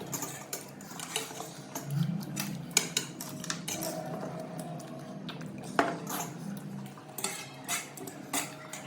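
Dishes and cutlery clinking and tapping irregularly while panipuri is eaten, with one sharper clink about six seconds in.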